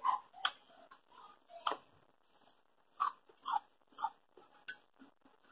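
Crunchy chewing of raw salad (iceberg lettuce and green tomatoes) close to the microphone: about seven short, separate crunches with quiet between them.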